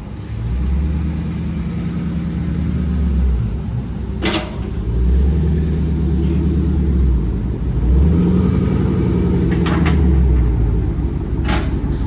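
Dodge Charger Scat Pack's 6.4-litre HEMI V8 running loud through an exhaust with the mid-muffler deleted and the resonators still on, swelling and dropping in several long surges, with a few short sharp cracks in between.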